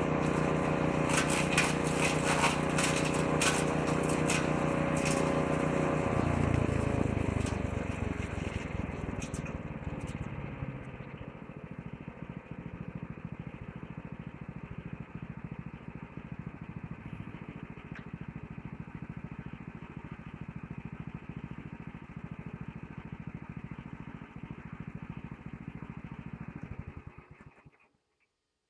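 6.5-horsepower petrol woodchipper running, with sharp clicks of material going through it in the first few seconds. About six seconds in the engine is switched off and the pitch falls as the shredder drum spins down, free-wheeling with a rattle until it stops just before the end.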